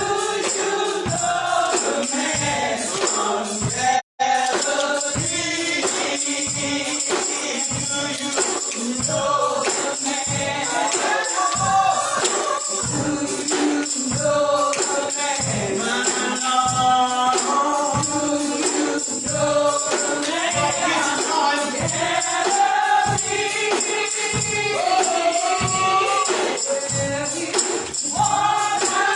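Gospel choir singing with a tambourine keeping a steady beat; the sound cuts out for an instant about four seconds in.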